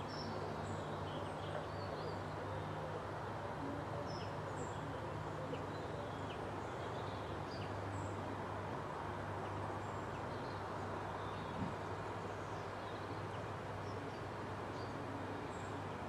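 Small songbirds chirping and whistling in short, scattered calls, over a steady low hum and a constant hiss.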